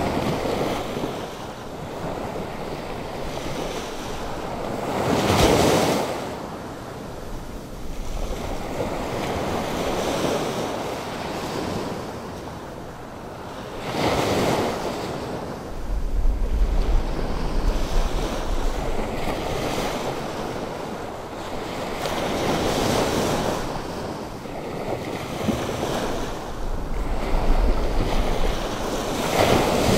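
Atlantic Ocean surf, stirred up by a passing hurricane, washing steadily on the shore, with big waves crashing about five seconds in, again near the middle, and at the end. Wind buffets the microphone with a low rumble in places.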